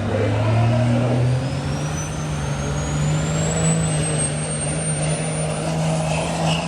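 Diesel pickup truck engine working hard on a sled pull, its note climbing and then holding steady, with a turbocharger whistle rising steadily in pitch over several seconds.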